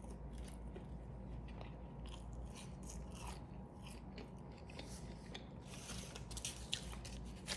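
Close-miked chewing of a Double Big Mac: soft, irregular wet smacks and small crunches of mouth sounds.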